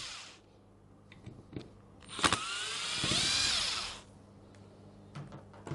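Small power screwdriver with a T20 Torx bit undoing the two screws that clamp the stator (field coil) into the hammer's housing. The first run dies away just after the start; a second run of about two seconds begins with a click about two seconds in, its pitch rising and then falling.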